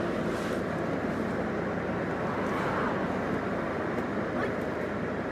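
Steady low rumble of vehicle and street noise.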